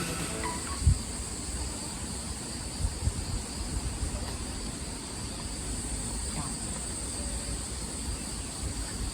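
Steady chorus of autumn insects, crickets, trilling in high, even tones, with wind rumbling on the microphone now and then.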